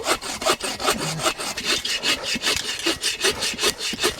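Hand saw cutting through wood with quick, even back-and-forth strokes.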